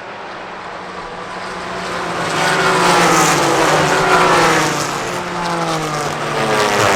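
Race cars approaching and passing at speed. Their engine notes grow louder, then drop in pitch as they go by, and more cars follow through near the end.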